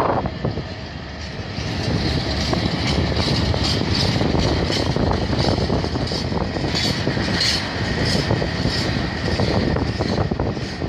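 Freight wagons of a passing freight train rolling by close at hand: a steady rumble of wheels on rail, with a quick run of evenly repeated clicks over it.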